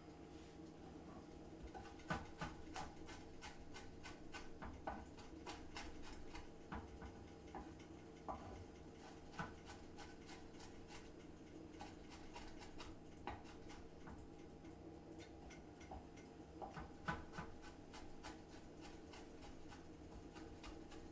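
Irregular light clicks and taps, some in quick clusters, over a steady low hum.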